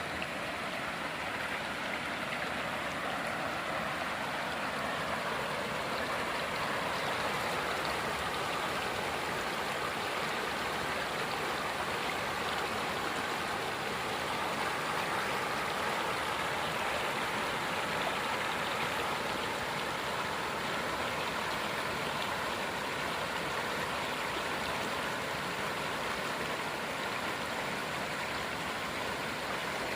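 Shallow river water running steadily, a constant rushing sound.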